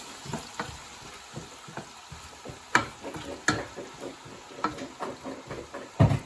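A utensil scraping and clicking against a frying pan as food is stirred, over a faint sizzle, with a louder knock near the end.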